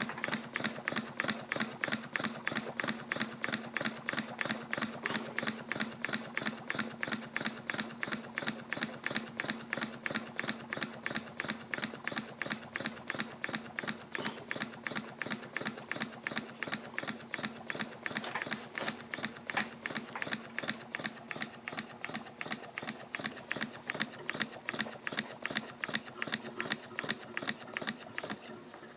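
Homemade 1-inch-bore model steam engine running on live steam, its exhaust chuffs and moving parts making a rapid, even clicking beat over a low steady hum.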